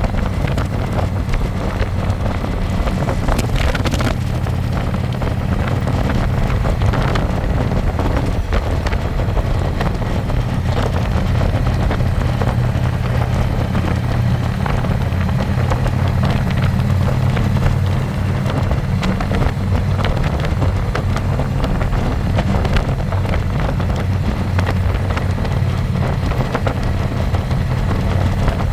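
Harley-Davidson Electra Glide's V-twin engine running steadily at cruise, with wind rushing over the microphone from the moving bike.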